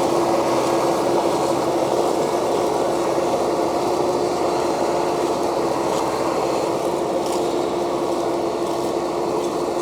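Massey Ferguson 6713 tractor's diesel engine running steadily while it pulls a five-shank row cultivator.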